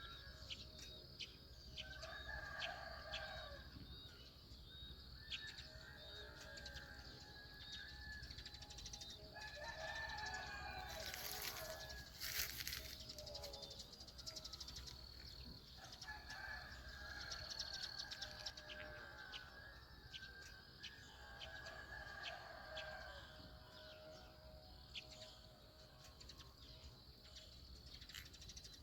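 Birds calling, with drawn-out calls of a second or two each repeating every few seconds. Faint rapid ticking sounds high up near the start, and a brief rustling burst comes about midway.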